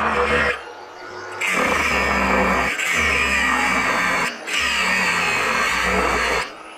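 Angle grinder cutting steel brackets off an old air compressor tank, running in stretches of one to three seconds with short breaks between cuts.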